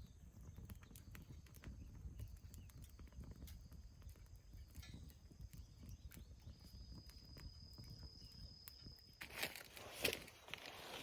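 Faint, scattered clicks and light knocks, with a louder rustling, clattering stretch about nine seconds in.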